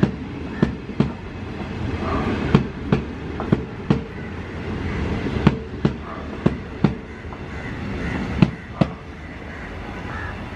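Indian Railways passenger coaches rolling past at low speed: sharp wheel clacks over the rail joints come in quick pairs every second or two over a steady rumble. The clacks stop near the end as the last coach goes by.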